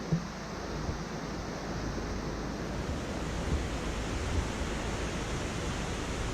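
Steady rushing noise of a car driving along a road: tyre and wind noise with a low rumble and a small bump just after the start.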